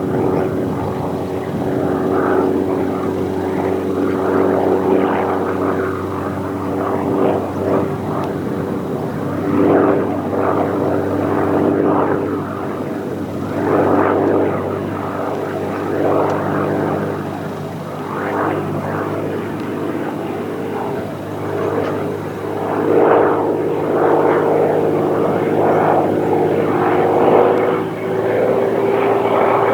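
Hawker Hurricane's Rolls-Royce Merlin V12 engine and propeller running with a steady, even note, under a rushing noise that swells and fades every second or two.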